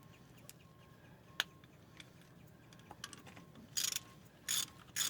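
Ratchet wrench clicking as small bolts on a pickup's brake assembly are run down, with a few separate clicks first, then four short rasping bursts of ratcheting in the last second and a half.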